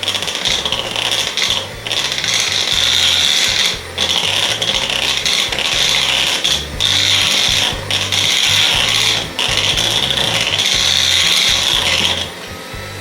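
Electric kitchen mixer beating banana bread batter. It runs in several long stretches with brief pauses between them, then stops near the end.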